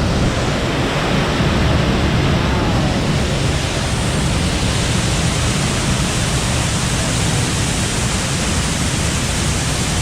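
Waterfall in full flow after heavy rain, a loud steady rushing of falling water.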